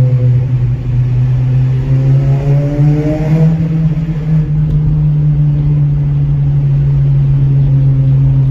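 Toyota Celica ZZT231's 2ZZ-GE four-cylinder running through a one-off HKS Silent Hi-Power rear muffler with its silencer drum cut off: a steady, loud idle-level drone. About two seconds in, the revs rise slightly for a second or so, then settle back.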